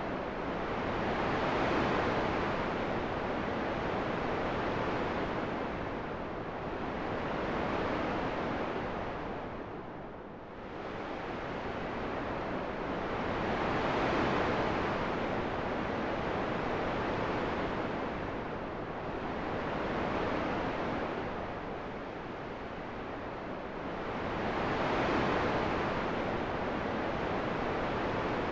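Steady rushing wind rising and falling in slow gusts every few seconds, with a brief lull about ten seconds in.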